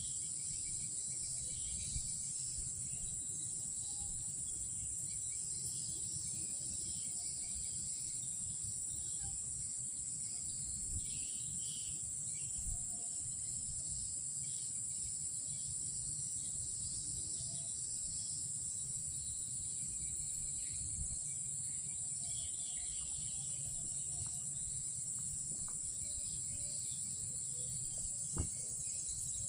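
Night insects, such as crickets, droning in one steady high-pitched note, with scattered fainter chirps and a low rumble underneath. A single sharp click comes near the end.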